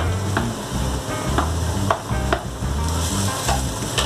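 Chopped onion, ginger, garlic and green chilies sizzling in hot oil in an earthenware pot, with a spatula stirring and scraping through them.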